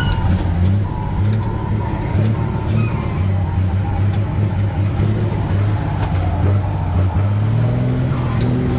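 Truck engine running under way, a steady low drone whose pitch shifts up and down slightly.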